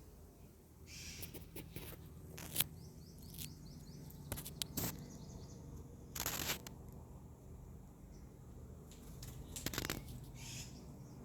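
Birds calling in runs of short, quickly repeated high falling chirps, twice, mixed with several brief rustling or scraping noises.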